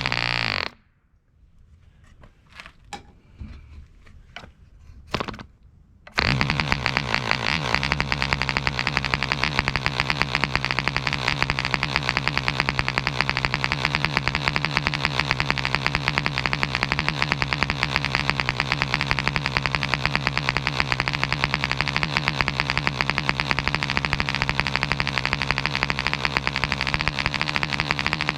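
Webra 1.5 cc model-airplane diesel engine stops just under a second in; after a few sharp clicks from the propeller being flipped by hand, it restarts hot about six seconds in and runs steadily at high speed.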